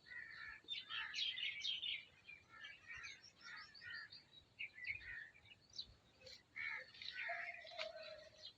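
Many small birds chirping and twittering at once, short overlapping calls throughout, with a single held note lasting about a second near the end.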